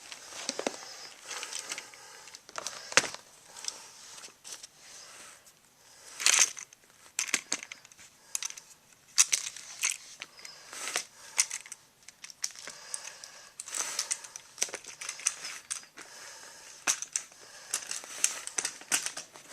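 Irregular crinkling, rustling and sharp plastic clicks from toy trains and scenery being handled, with the loudest clicks about three, six and nine seconds in and a steady scatter of smaller ones.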